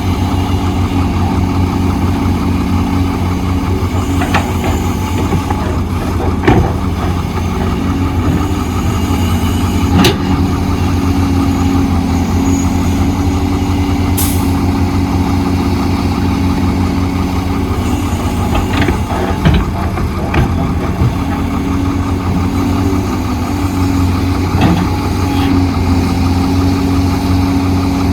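Heavy diesel engine of construction machinery running steadily at a low, even pitch, with occasional sharp metal knocks and clanks. There is a short hiss of air about halfway through.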